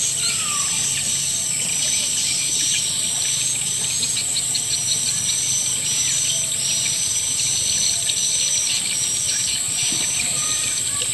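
Edible-nest swiftlets twittering in a dense, unbroken chorus of short high chirps over a steady high hiss: an 'akau sedot senja' swiftlet lure call, the kind played to draw swiftlets into a nesting house.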